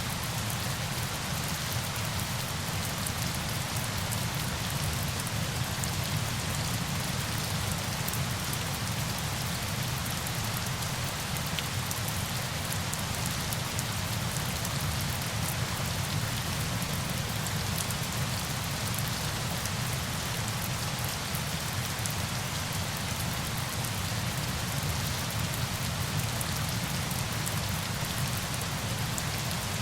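Steady sound of falling water: a dense, even hiss with a fine patter of drops and a low rumble beneath, unchanging in level.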